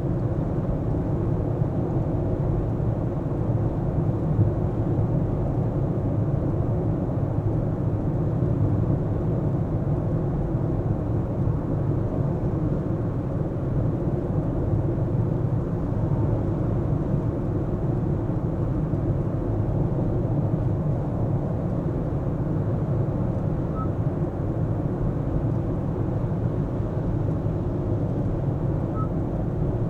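A car driving: steady low road and engine rumble that holds an even level throughout.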